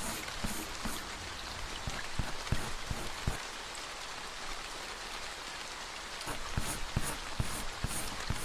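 Steady rain noise with scattered heavier drops knocking. From about two-thirds of the way through, a regular pattern of soft strokes comes in, roughly two to three a second.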